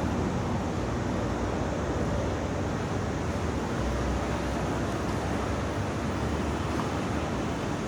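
Steady low rumble and hiss of airport ambient noise, with no distinct events standing out.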